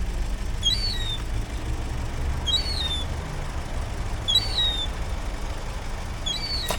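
A small bird chirping, one short high call repeated about every two seconds, over a steady low rumble.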